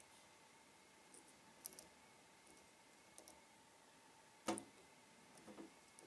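Faint, scattered clicks of a lock pick and tension wrench working the pins inside a Trioving 5632 padlock during single pin picking, with one sharper click about four and a half seconds in.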